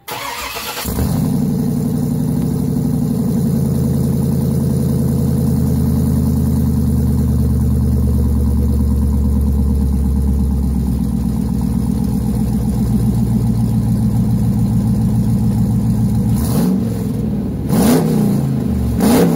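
Kia Sorento's swapped-in 6.0-litre LS V8 idling steadily, then revved sharply several times near the end.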